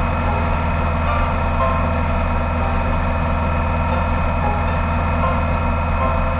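Touring motorcycle engine running at a steady highway cruising speed, an even, unchanging drone that cuts off abruptly at the end.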